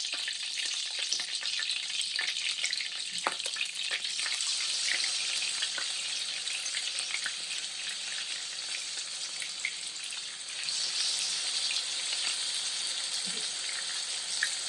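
Chicken pieces searing skin side down in hot oil in a pan on medium-high heat: a steady sizzle with scattered crackles and pops.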